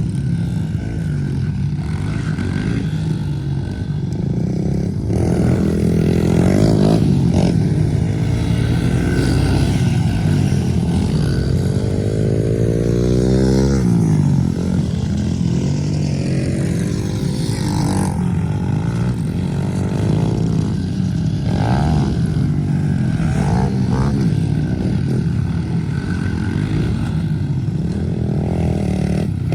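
Pit bike engines running and revving, the pitch rising and falling. Near the middle, one engine's pitch drops in a long sweep as a bike slows or passes.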